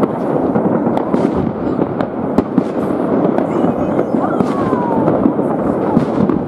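New Year fireworks going off all over a city: a dense, continuous crackle of many overlapping bangs and pops, with a falling whistle about four seconds in.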